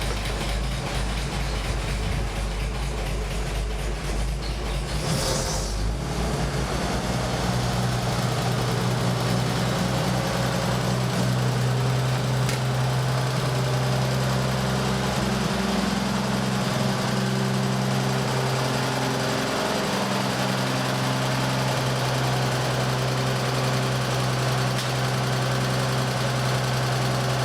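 1948 White WC-18 truck's engine, a WA-22 engine, idling after a hand-crank start. About six seconds in it picks up speed and settles into a faster, steady run.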